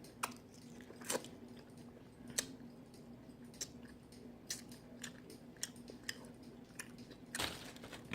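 Close-up chewing of cooked mussels, with wet mouth smacks and sharp clicks every second or so. A faint steady hum runs underneath.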